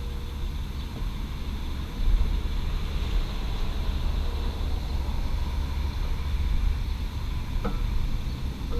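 Steady low rumble of passing urban traffic, swelling about two seconds in. There is one faint click with a short ring near the end.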